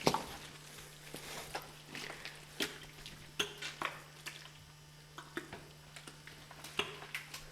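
Irregular faint knocks and clicks, about a dozen scattered through, over a steady low hum.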